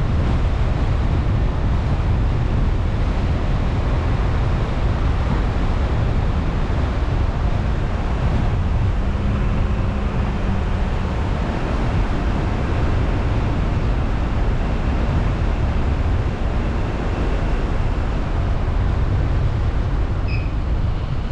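Car on the move, heard as a steady rushing rumble of wind buffeting the action camera's microphone together with road noise.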